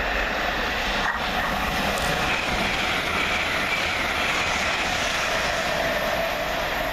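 Passenger train passing through the station at speed: a steady rushing noise with a faint whine.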